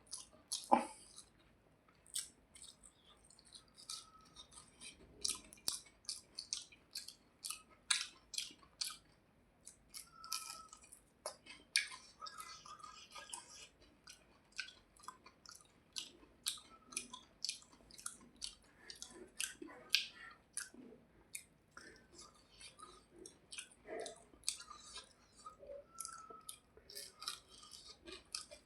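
Close-up mouth sounds of a person eating a rice and hilsa fish meal: chewing with an irregular run of wet smacks and sharp clicks, often several a second.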